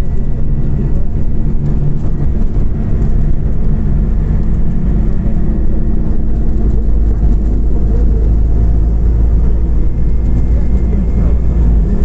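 Scania OmniCity CNG city bus driving, heard from inside the passenger cabin: a steady, loud, low rumble of the gas engine and road noise, the deepest part growing stronger about four seconds in.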